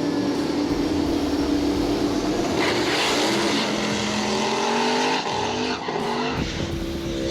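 Camaro and Mustang street cars racing: engines held steady at first, then from about two and a half seconds in accelerating hard, the engine note climbing in pitch in several rises through the gears, with tyre squeal.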